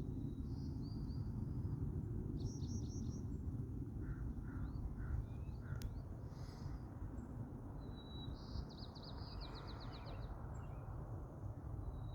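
Songbirds singing and calling: short bursts of high chirps, a rapid trill in the second half and a few lower notes, over a steady low rumble. A single sharp click about six seconds in.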